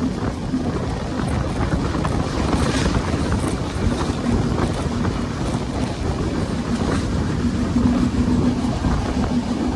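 Train running on the rails: a steady rumble with a low hum that comes and goes, and wind buffeting the microphone.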